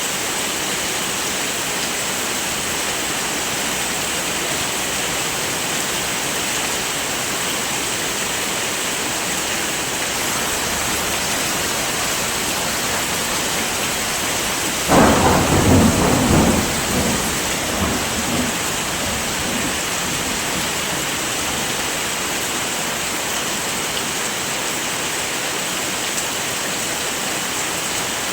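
Heavy rain falling steadily, with a sudden clap of thunder about halfway through that rumbles away over the next few seconds.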